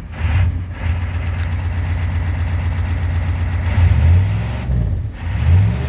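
Old turbocharged Ford IDI diesel engine running just after a cold start on starting fluid, a steady low rumble with a couple of brief swells in speed near the end.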